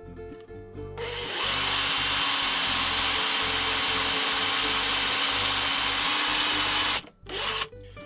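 Electric drill running steadily for about six seconds as it bores a small hole in a motorcycle speedometer drive, then cutting off abruptly, with two brief bursts after it near the end. Quiet background music plays at the start.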